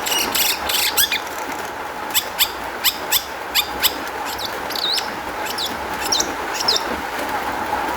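Long-tailed shrike singing a fast, varied run of sharp chirps, clicks and quick whistled sweeps, a song filled with mimicked phrases, over a steady hiss.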